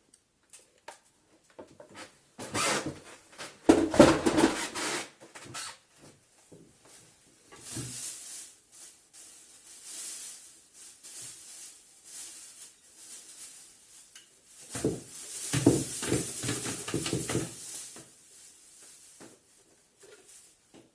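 Plastic parts of a Bosch bagless vacuum cleaner being handled and worked apart by hand. There are two spells of clattering and rattling, one early and one past the middle, with lighter scraping between them. The motor is not running.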